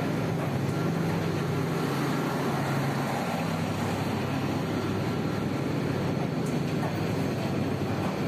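Tista Express passenger coaches rolling past along a station platform: a steady rumble of wheels on rail, with a low hum that fades about three and a half seconds in.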